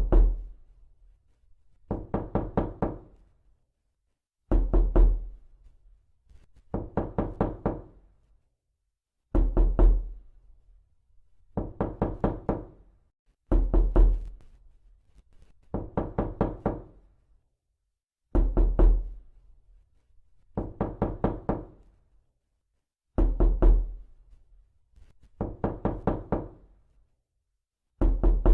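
Knocking on a door: quick bursts of about four to six rapid knocks, one burst every two seconds or so, repeating as a steady loop. Every other burst starts with a heavier, deeper thud.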